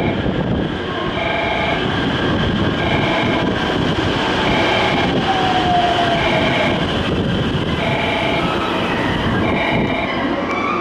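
Electric train running at a station platform with a steady low rumble. A two-tone electronic chime repeats about every one and a half seconds, and a single falling whine passes about halfway through.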